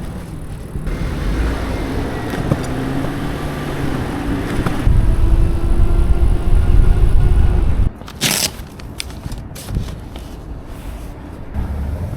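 City traffic and wind rumble on the microphone while riding a bicycle. The rumble grows loudest toward the middle, then drops with a short sharp hiss about eight seconds in, followed by a few clicks.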